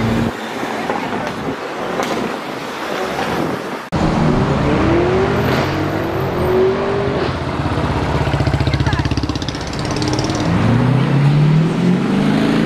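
Sports car engines accelerating along a road, the engine note rising in pitch through two long pulls, with a fast pulsing exhaust note between them and an abrupt cut about four seconds in.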